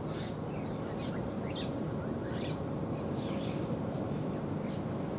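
Small birds chirping: a string of short, high calls at irregular intervals, over a steady low background rumble.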